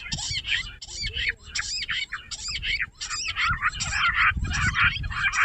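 Jungle bush quail calling in a rapid, overlapping chorus of shrill chirping notes, several a second.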